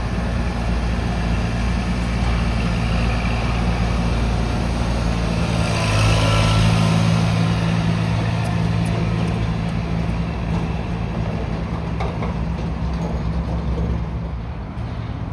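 Amtrak Auto Train running noise: a steady low rumble and hum, swelling with a rush of hiss about six seconds in, then easing slightly near the end.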